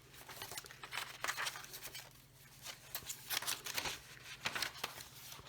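Paper pages and flaps of a handmade junk-journal folio being turned and unfolded: a series of short, irregular rustles and crinkles, over a faint steady low hum.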